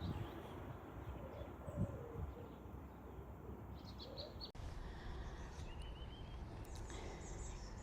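Faint birdsong: short high chirps and a quick trill, over a steady low outdoor background noise.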